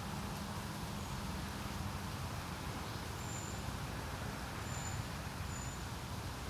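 Steady wind on a lake, a low rumbling noise with no break, with three faint, short, high bird notes from about three seconds in.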